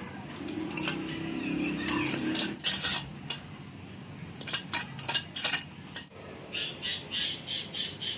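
Metal hand tool clinking and scraping on a hard floor surface during floor repair work. It starts with a few sharp strikes, then a run of quick scrapes at about three a second near the end.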